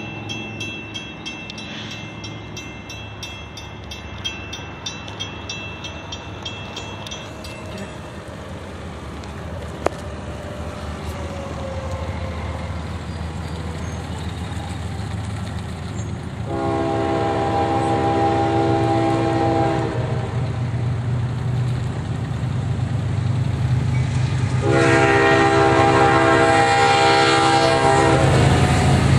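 Diesel freight train approaching, its locomotive rumble growing steadily louder. The air horn sounds twice, a chord of several notes held for about three seconds a little past halfway through and again for several seconds near the end.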